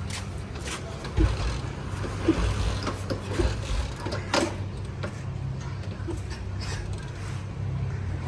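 Old Royal Enfield Bullet 350 being kicked over without catching: several dull thuds of the kick-start in the first few seconds, over a steady low hum. The engine does not fire; the owner blames stale fuel from long standing.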